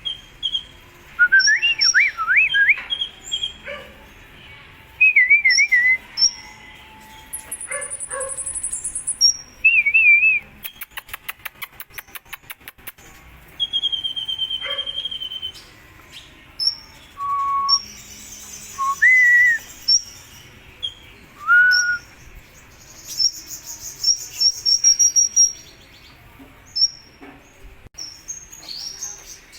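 Sunbird (kolibri ninja) singing: a lively string of short whistled notes, wavering trills and high chirps, with a fast run of dry clicking notes about eleven seconds in.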